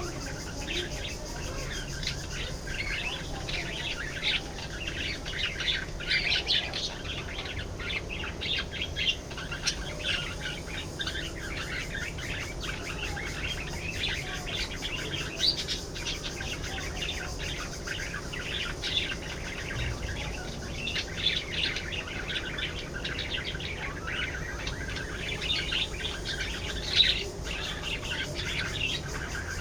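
A flock of budgerigars chattering and warbling: many overlapping short chirps and trills throughout, with no pause.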